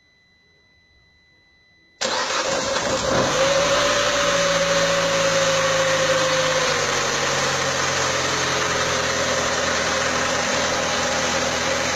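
A faint steady beep tone, then about two seconds in the 1.4-litre 95 hp engine, which the owner says has a starting problem, starts abruptly and runs at a fast idle with a whine. The whine sinks and the idle settles lower over the next five seconds, then stays steady.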